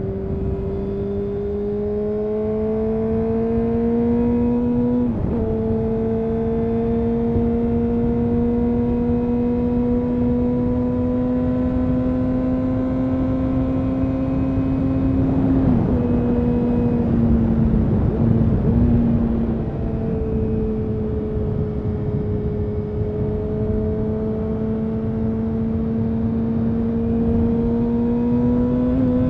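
2000 Honda CBR929RR Fireblade's inline-four engine through an Erion full racing exhaust, pulling under steady acceleration. Its pitch climbs slowly and drops sharply about five seconds in and again around sixteen seconds, as at upshifts, then dips and climbs once more toward the end.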